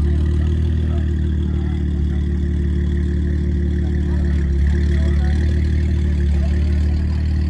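A car engine idling steadily nearby, a deep, constant exhaust note that neither revs up nor cuts out.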